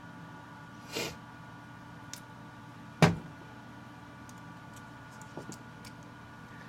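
Screwdriver and bits being handled while the screwdriver head is swapped for a bigger one: a brief rustle about a second in, a sharp click about three seconds in, and a few faint ticks, over a steady low hum.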